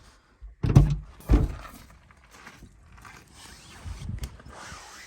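Two dull thunks about half a second apart near the start, then rustling, with another softer knock about four seconds in.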